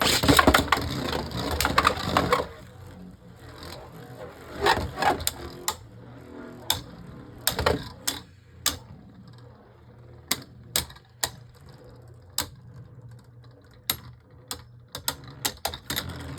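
Plastic Beyblade tops and parts rattling and clicking. A dense clatter for the first two or three seconds, then scattered sharp clicks and taps as the tops are handled and reset.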